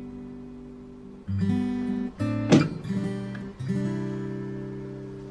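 Background music: acoustic guitar strumming chords that are left to ring, a new chord every second or so, one bright sharp strum about halfway through.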